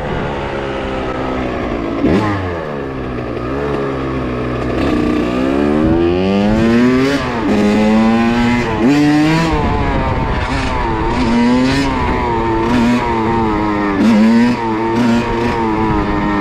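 Kawasaki KX85's two-stroke single-cylinder engine revving up and down over and over, its pitch rising and falling with the throttle as the rider works to hold a wheelie.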